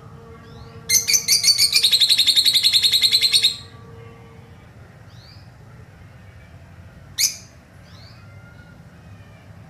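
Lovebird chattering in a rapid, evenly repeated run of high notes for about two and a half seconds, starting about a second in: the 'ngekek' call that lovebird keepers prize. A single sharp call follows near the end, with faint short chirps in between.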